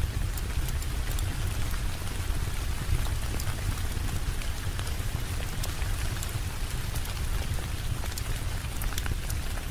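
Steady rain with a deep low rumble beneath it, and scattered small sharp ticks throughout.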